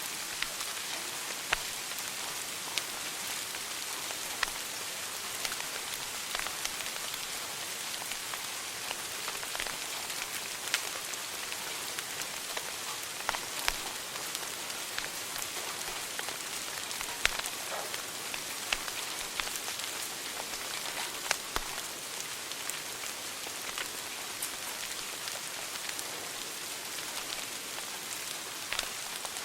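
Wood fire burning in a fireplace, crackling: a steady hiss with irregular sharp pops and snaps, a few of them louder.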